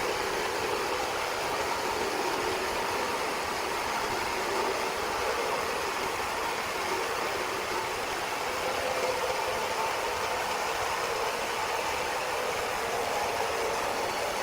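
Steady machinery noise, an even drone that does not change.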